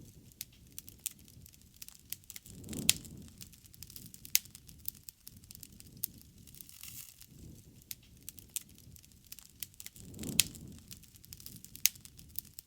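Bonfire crackling: irregular sharp pops and snaps over a soft hiss. Twice, about three seconds in and about ten seconds in, a soft low whoosh swells and carries the loudest pop.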